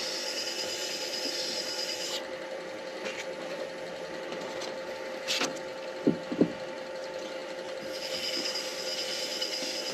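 Midi lathe running steadily while the spinning pen blank is sanded with micro-mesh pads. The sanding hiss stops for several seconds in the middle, where there are a couple of short knocks.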